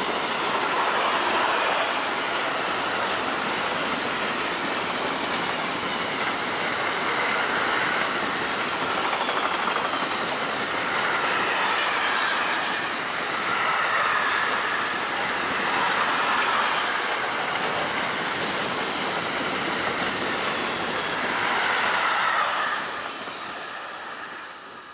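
A train passing close by: its wheels running on the rails make a steady loud noise with slow swells. The noise drops away about 22 seconds in as the end of the train goes by, then fades.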